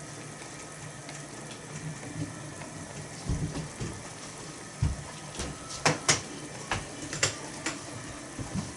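Kimchi stew simmering and bubbling in a small iron pot over an alcohol stove, with several sharp ticks in the second half.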